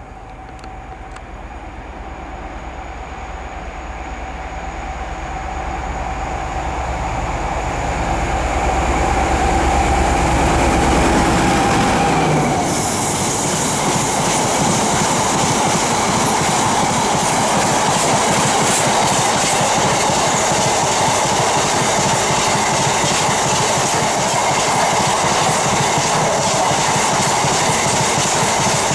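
A Class 60 diesel locomotive approaches, its engine rumble growing louder until it passes and drops away in pitch about twelve seconds in. A long rake of biomass hopper wagons then rolls past, with steady wheel-on-rail noise and a clickety-clack of the wheels over the rail joints.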